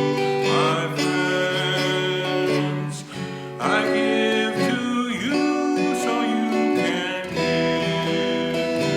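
Instrumental acoustic guitar music, with held chords changing every second or two.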